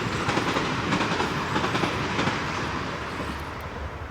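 A train passing on a nearby railway line: wheels clattering over the rails with a steady rush of noise that eases off near the end.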